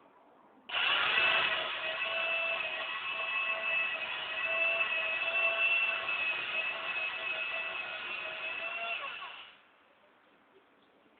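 A power tool's motor starts abruptly at full speed, runs at a steady pitch for about nine seconds, then winds down and stops.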